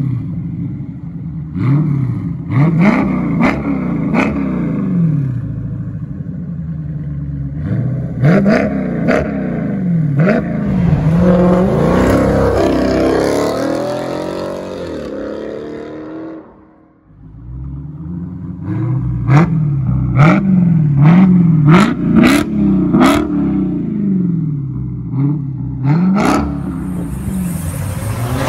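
2019 Dodge Challenger R/T Scat Pack's 6.4-litre HEMI V8 revved through a Kinney's Tunnel Ram custom exhaust. It goes up and down in repeated quick blips with sharp pops between them. Midway it makes one longer, higher pull, and drops out briefly before the blips resume.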